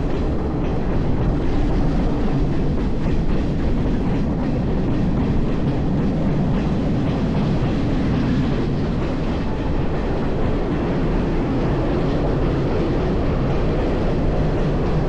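A train running on rails: a steady low rumble.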